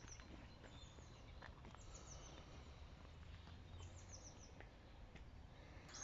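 Near-silent outdoor ambience with small birds chirping faintly: short high calls in little clusters, about two seconds in and again around four seconds in.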